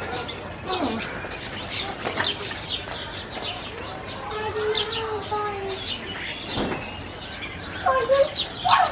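Birds chirping: many short, high peeps, with a lower drawn-out call about halfway through.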